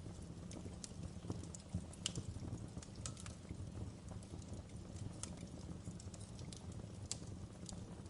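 Wood fire burning in a fireplace: irregular sharp crackles and pops over a steady low rumble of the flames, with the loudest pops about two and seven seconds in.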